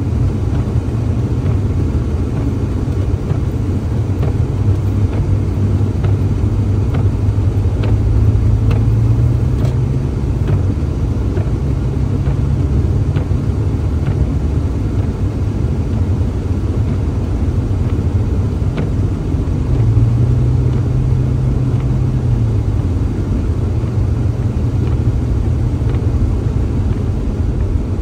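Car driving, a steady low engine and road rumble; the engine note rises a little twice.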